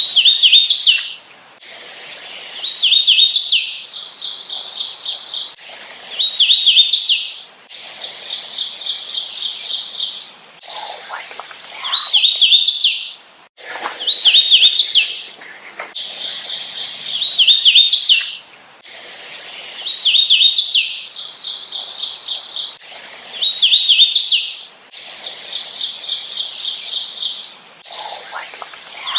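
Hooded warbler singing its song over and over, about every three to four seconds: a run of slurred whistled notes ending in a sharp upslurred flourish. Between the songs a rapid, even high trill runs, broken off abruptly at splices in a looped recording.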